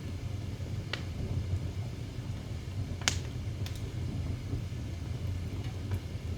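Wood fire burning in a fireplace: a steady low rumble with about four sharp crackling pops, the loudest about three seconds in.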